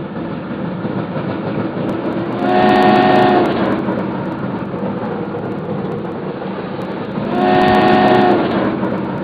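Battery-powered Lego Duplo toy train running along its plastic track with a steady whir, sounding its horn twice, each blast about a second long and about five seconds apart.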